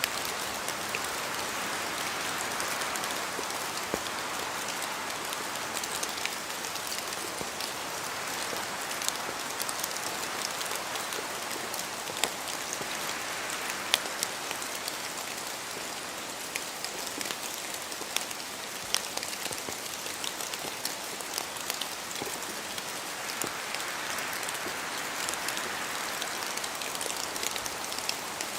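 Steady rain falling through forest trees, with scattered individual drops ticking and slow swells of wind in the leaves.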